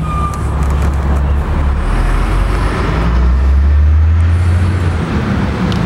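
Motor vehicle noise: a low engine rumble over a haze of road noise, swelling around the middle and easing off near the end.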